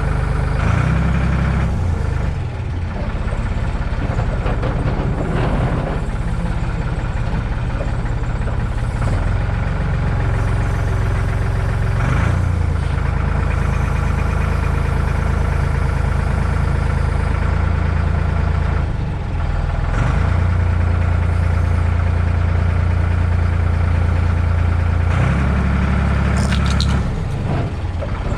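Forklift engine running close by, its speed stepping up and down several times as the machine is lifted and moved. A short high squeak near the end.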